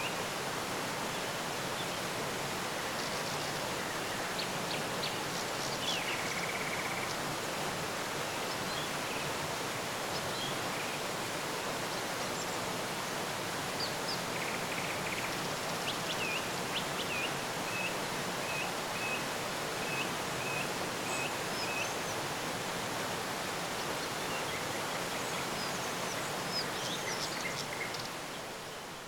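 Outdoor nature ambience: a steady, even rushing noise with faint, scattered bird chirps over it. In the middle, a bird repeats a short chirp about every half second for several seconds. The rushing fades out near the end.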